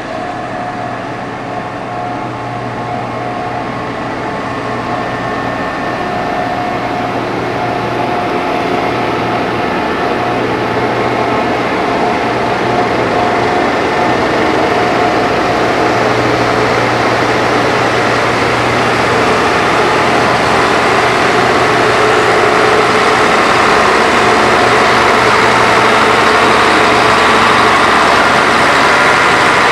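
Heavy diesel engine of road-construction machinery running steadily, growing slowly louder throughout as the machine comes closer.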